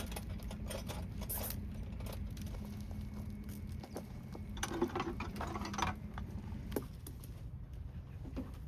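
Hyundai HX65AMT mini excavator's diesel engine idling with a steady low rumble, a hum over it cutting off about seven seconds in, and scattered light metallic clicks and taps of hose fittings and tools being handled.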